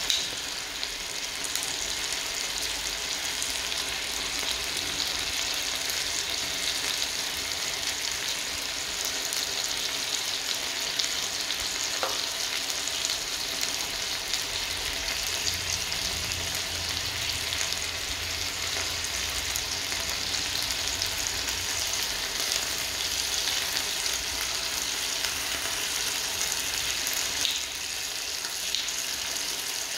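Chicken wings sizzling and crackling in hot oil in a nonstick frying pan, a steady hiss, with a few light knocks of silicone tongs as the pieces are turned.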